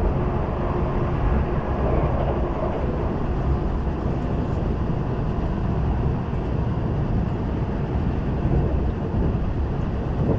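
Steady running noise of a Kintetsu electric train, heard from inside the passenger car while it travels along the line.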